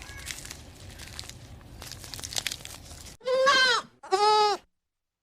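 Faint crunching and rustling, then a goat bleats twice near the end, two short calls in quick succession, after which the sound cuts off.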